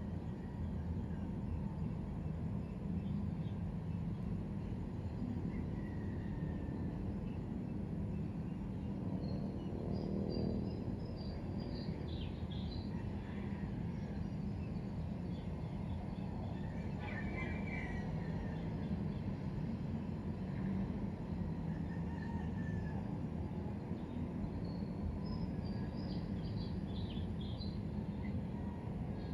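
Outdoor ambience: a steady low background hum with small birds chirping now and then in short high calls, a cluster around ten to thirteen seconds in and again near the end.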